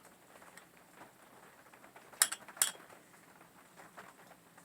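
Two light clinks about half a second apart, a little over two seconds in, as the homemade feeder of glass bottles and copper wire is handled. Otherwise a faint steady hiss.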